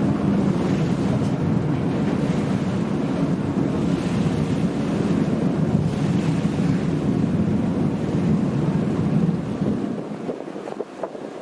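Passenger ferry under way: a steady low rumble of engine and rushing water, with wind noise on the microphone. The rumble falls away about ten seconds in.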